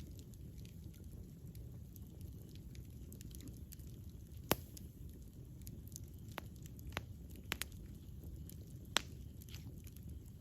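Wood campfire burning: a low, steady rumble of flames with scattered sharp crackles and pops. The two loudest pops come about four and a half seconds in and about nine seconds in.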